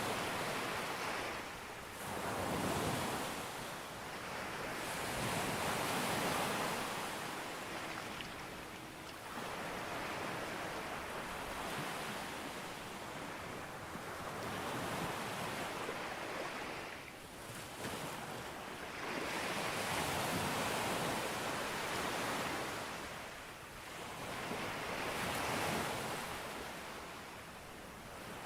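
Sea waves breaking and washing up a beach in a continuous hiss that swells and ebbs every few seconds, with a little wind on the microphone.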